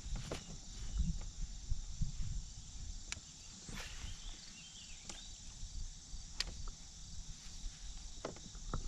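Steady chirring of crickets or other insects, with a low rumble underneath and a few sharp, scattered clicks.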